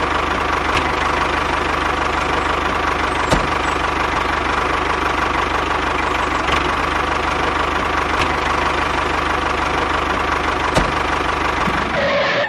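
A small motor of a home-built mini tractor running steadily with a fast, even pulsing, with a few sharp clicks scattered through it. It cuts off right at the end.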